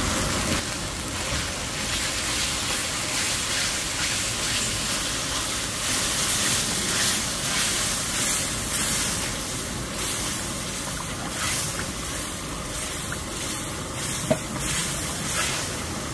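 Green curry cooking in a pan: a steady sizzle with the strokes of a utensil stirring it, and a sharp clink about 14 seconds in.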